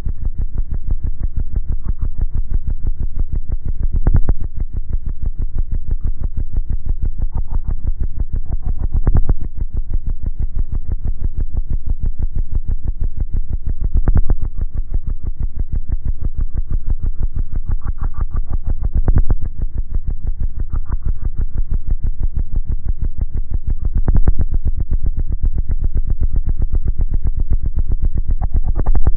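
Bass-heavy electronic music played loud through two 18-inch Ultra Audio subwoofers on Cadence amplifiers. The deep bass dominates, with a fast pulsing beat and a louder swell about every five seconds.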